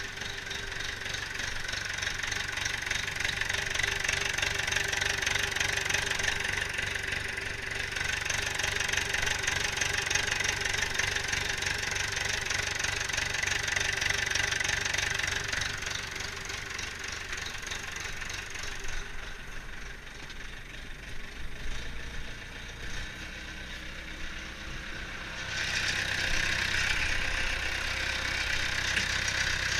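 International Harvester 844 XL tractor's diesel engine idling steadily, running again after sitting unstarted for a year and a half to two years. It grows quieter for a few seconds past the middle, then comes back up.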